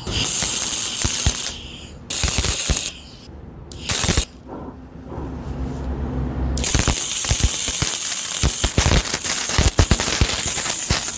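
Wire-feed CO2 welding arc crackling on steel. It comes in three short bursts, then after a pause of a couple of seconds it runs as one longer, steady bead from about two-thirds of the way in.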